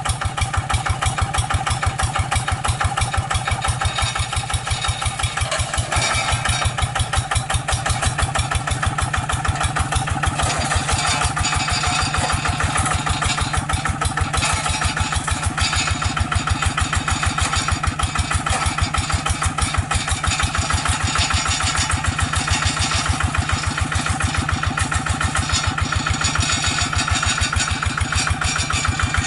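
Hand tractor's single-cylinder diesel engine running steadily with an even, rapid beat.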